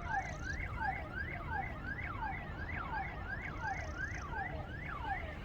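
Electronic siren or alarm sounding in a rapid repeating sweep, about two to three up-and-down wails a second, over a low background rumble.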